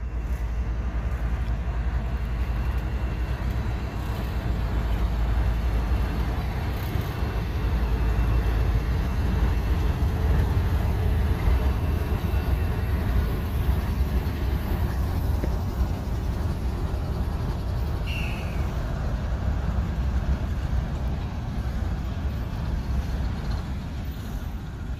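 Train rolling past with a steady low rumble, and a brief squeal about 18 seconds in.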